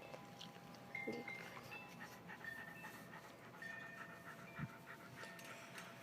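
A dog panting softly, with faint short high chirps repeating in the background.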